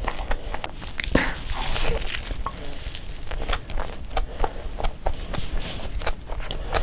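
Close-up eating sounds: biting and chewing a gravy-dipped burger, with many small wet clicks and smacks of the mouth.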